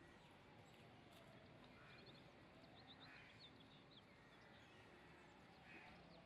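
Near silence: faint outdoor background with a few faint bird chirps around the middle.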